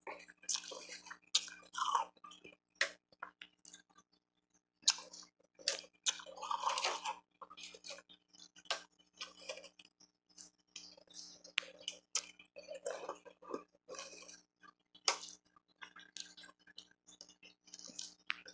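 Close-miked crunching and chewing of refrozen powdery ice and hard ice pieces: irregular sharp crackling crunches, with a short pause about four seconds in.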